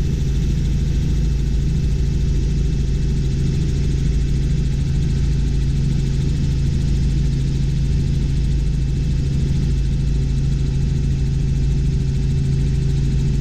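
Robinson R44 Clipper II helicopter's engine and rotors droning steadily inside the cabin in level cruise flight.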